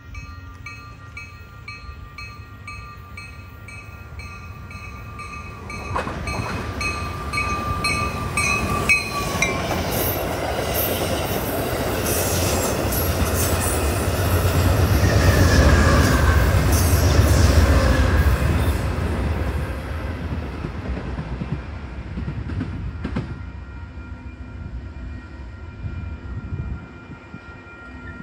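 Amtrak Downeaster passenger train passing through at speed: the rumble of its wheels on the rails starts suddenly, builds to its loudest about halfway through and fades away over the last several seconds. Before the train arrives, a rapid, regular dinging is heard.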